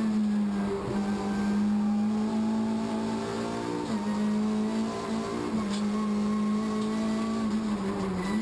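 Race car engine heard from inside the cockpit, running at steady high revs, its note dipping briefly twice, about four and five and a half seconds in.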